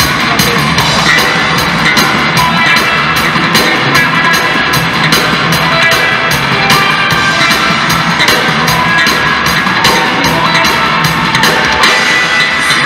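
Live rock band playing an instrumental passage of a song, with a drum kit keeping a steady beat and guitar.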